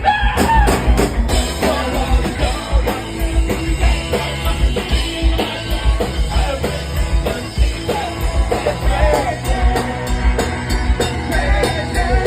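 Punk rock band playing live: a full drum kit beat and electric guitars under group singing.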